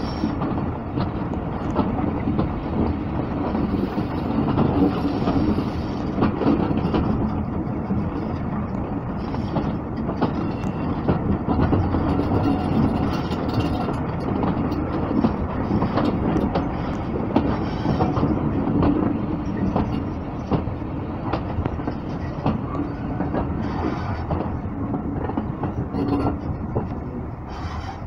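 Heritage passenger train hauled by a Class 31 diesel locomotive, heard from an open carriage window while running along the line. A steady rumble of wheels on rail carries frequent short clicks and clatter from the track.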